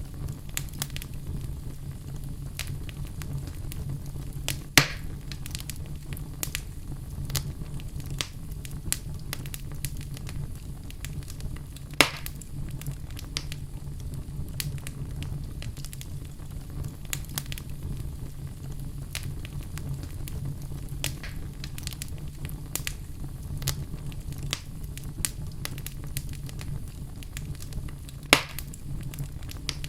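Fire burning in a fireplace: constant small crackles over a steady low rumble, with three loud sharp pops spread through.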